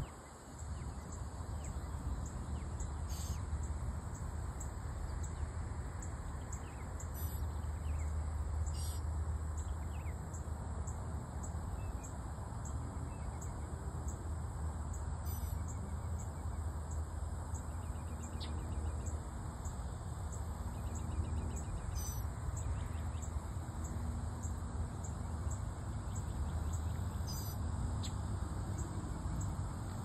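Songbirds giving short, high calls a few seconds apart, some falling in pitch, with a brief rapid trill near the middle. Under them runs a steady low rumble.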